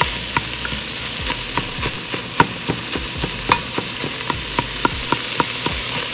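Ground sausage and red onion sizzling in a Dutch oven as a spoon stirs and breaks up the meat. Each stroke against the pot makes a sharp click, about three a second, over a steady frying hiss.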